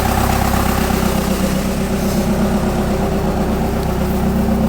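Old Ford diesel tractor engine running steadily at a constant speed, its rebuilt injection pump keeping it going after years out of service.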